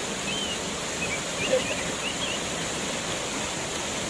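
Waterfall rushing, a steady even wash of falling water, with a few short high chirps in the first two seconds or so.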